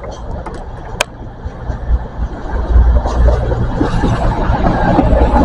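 Passenger train for London Paddington running into the station: a low rumble and drone that grow louder from about halfway through. A single click about a second in.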